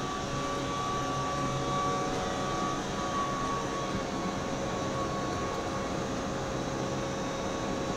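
Keihan 8000 series electric train giving off a steady hum with a few faint held whining tones that stay at one pitch.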